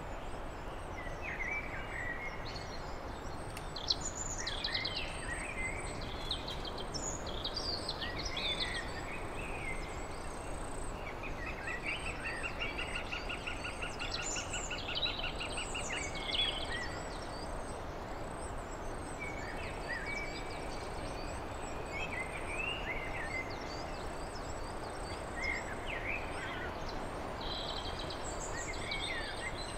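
Songbirds singing and calling, with many short chirps and phrases and a rapid trill lasting about four seconds near the middle, over a steady background hiss.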